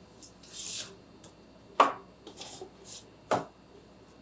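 Pickle containers being handled: a short rustling hiss, then two sharp knocks about a second and a half apart as boxes are set down or knocked together.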